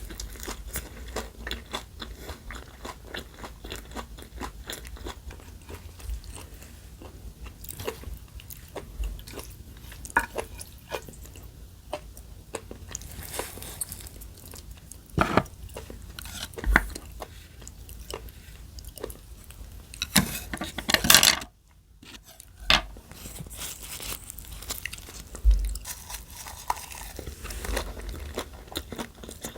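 Close-miked eating: a person chewing and biting food, with many small crunches and clicks, and a louder run of crunching about two-thirds of the way through.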